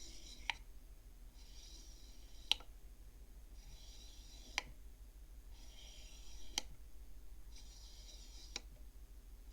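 Beads of a children's bead counting frame (abacus) slid one at a time along their rod. Each bead makes a short sliding rasp that ends in a sharp click as it meets the others, five times about two seconds apart.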